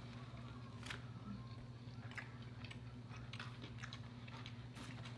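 Faint close-up chewing of a chicken fried steak sandwich: soft, scattered wet clicks and small crunches of mouth sounds, over a steady low hum.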